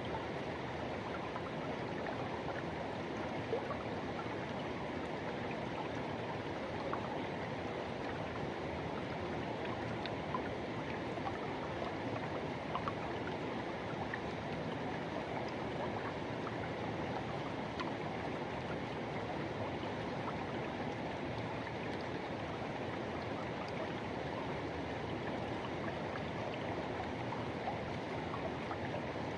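Forest river rushing steadily over rocks, with small splashes and gurgles scattered through it.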